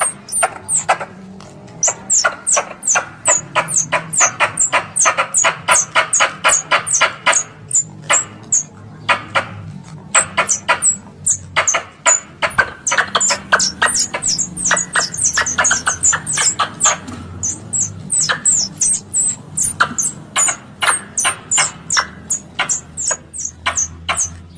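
Squirrel lure call for coconut squirrels (plantain squirrels): a rapid run of sharp, high chirping calls, about four a second, with a few brief pauses.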